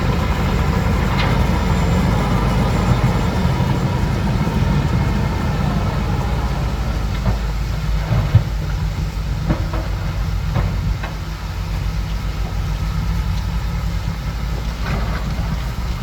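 Bulldozer's diesel engine running steadily under load, with a few short metallic clanks now and then.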